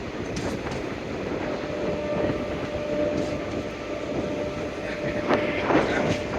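Passenger train running on the rails: a steady rumble with scattered sharp clicks of wheels over rail joints, and a faint steady whine from about two seconds in.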